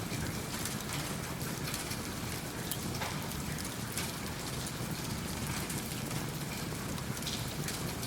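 Steady rain falling, with a wood fire crackling in a fireplace.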